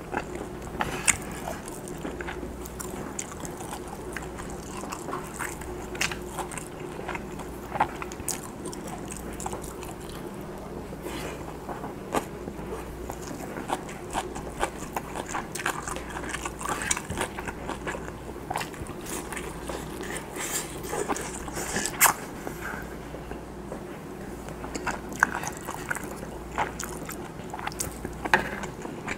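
Close-miked chewing of Spam and rice: wet mouth clicks and smacks scattered irregularly, a few sharper clicks standing out, the strongest about 22 seconds in. A steady low hum runs underneath.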